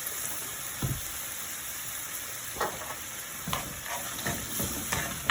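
Coconut-milk curry sauce sizzling in a hot pan as it is stirred, with a spoon scraping and knocking against the pan several times.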